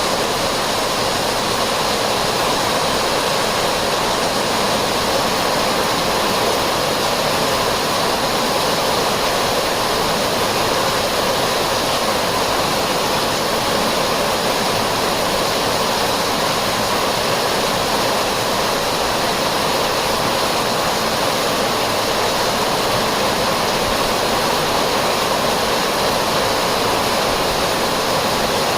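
Heavy rain pouring down in a steady, even rush of falling water.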